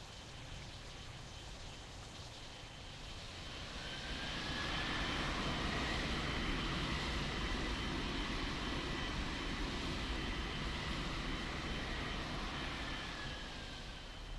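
Airliner passing by with its engines running: a whine and rush that swell over a couple of seconds, hold, then fade away near the end.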